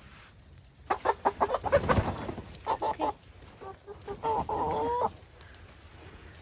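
Backyard chickens clucking: a quick run of short clucks, a few more a second later, then one longer drawn-out call about four seconds in.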